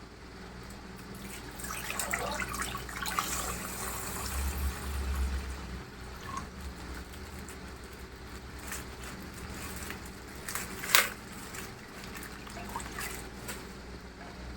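Water-filled plastic bag squeezed and popped, the water trickling and splashing out, loudest a few seconds in. Scattered small clicks, with one sharp click about eleven seconds in.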